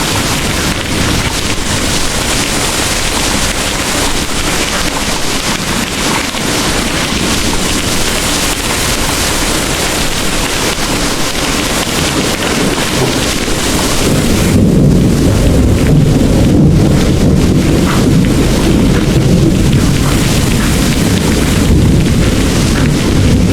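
Heavy rain pouring in a steady, dense hiss. About fourteen seconds in, a deep rolling rumble of distant thunder swells up and carries on to the end while the rain's high hiss thins.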